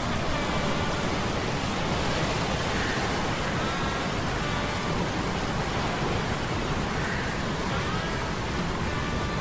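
Steady rushing noise of a sea storm sound effect, wind and surf, with faint short whining tones from humming metal gears now and then.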